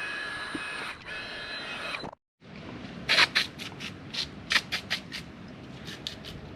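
A power tool running with a steady high whine, stopping about two seconds in. After a brief gap, a run of sharp clicks and scrapes of hand work on parts.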